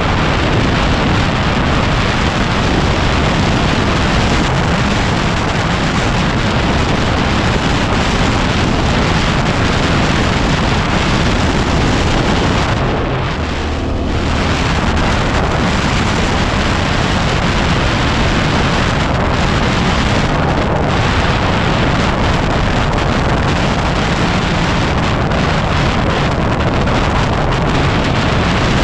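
Heavy wind noise battering the microphone of a moving motorcycle, over the Yamaha WR250R's single-cylinder engine. About halfway through the wind briefly eases and the engine's low hum comes through.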